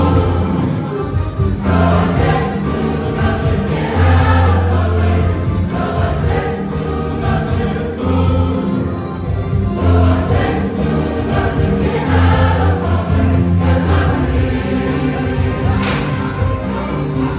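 Church choir singing with instrumental accompaniment and a strong, steady bass.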